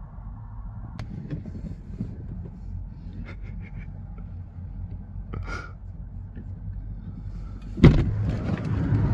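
Car engine idling with a steady low hum, with a few faint clicks. Near the end comes a sudden louder sound, and then the rumble grows louder.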